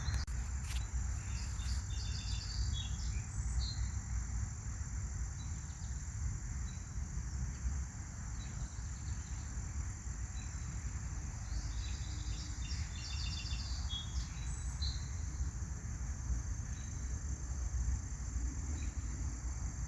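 A steady, high-pitched insect trill, with a bird's calls of short repeated notes in two bouts, about a second in and again around twelve seconds. A low rumble runs underneath.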